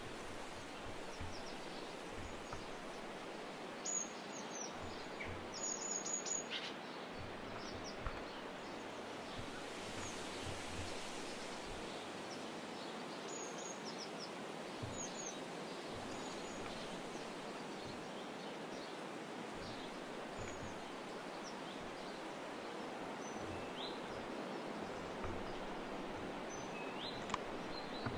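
Small songbirds giving short, high chirps every few seconds over a steady outdoor hiss, with the loudest cluster of chirps between about 4 and 6 seconds in.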